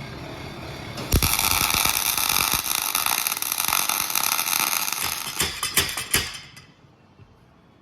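Electric welding arc crackling steadily for about five seconds while a bead is laid on a gearbox bearing race, so the race shrinks and can be knocked out of its housing. It starts abruptly about a second in and breaks off with a few sputters near the end.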